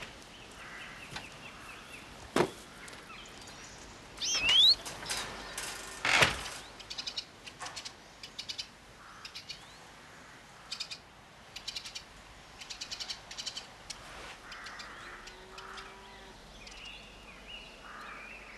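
Small birds chirping and twittering in quick trills, with two sharp knocks, about two and six seconds in, louder than the birdsong.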